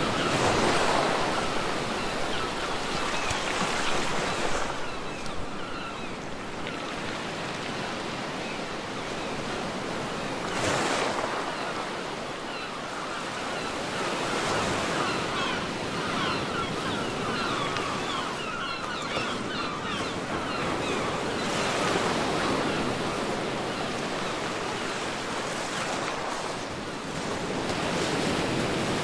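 Ocean waves breaking on a beach and washing up the shore, the surf swelling into a new break every five to seven seconds, with a fizzing hiss between breaks.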